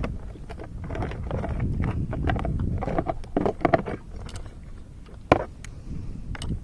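Irregular small clicks and knocks over a low wind rumble on the microphone, with one sharp knock a little after five seconds in.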